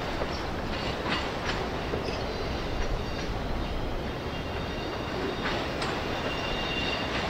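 Freight train of autorack cars rolling past: a steady rumble of wheels on rail, with scattered clicks and clanks from the wheels and couplers, and a thin high squeal from the wheels coming in near the end.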